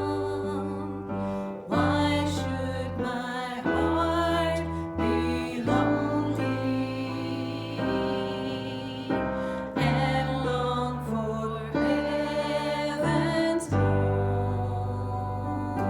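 Slow worship music played on a keyboard: sustained chords that change every second or two.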